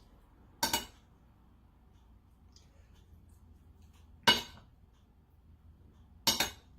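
Three separate clinks of an eating utensil knocking against a dish, each sharp with a short ring, about a second in, about four seconds in and near the end.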